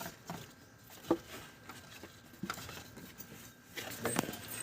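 Scattered light metallic clicks and clinks of hand tools and engine parts being handled, with one sharper click about a second in.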